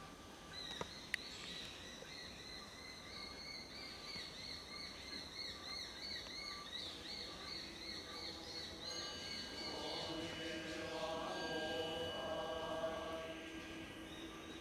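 A bird singing a fast, repeated warbling phrase, with lower calls and a few steady high tones joining about ten seconds in.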